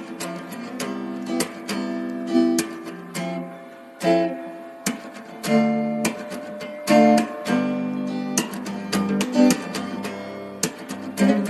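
Background music of a plucked and strummed acoustic guitar, with repeated chord strums.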